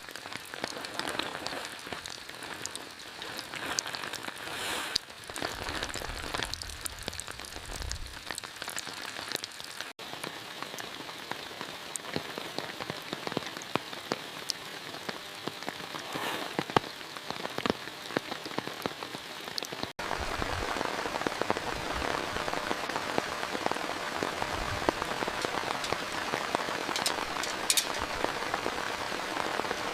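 Steady rain falling, with many separate sharp drop hits ticking through the hiss. In the last third the rain is denser and louder.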